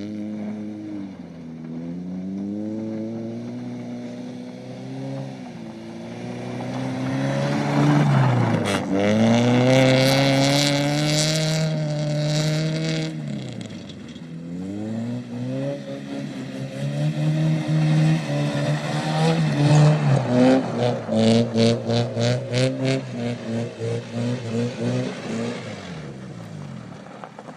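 Honda Civic's exhaust through a cheap junkyard aftermarket muffler, an 'eBay fart cannon', as the engine revs up and down several times, the pitch climbing and dropping. Near the end the note breaks into a quick run of pulsing beats.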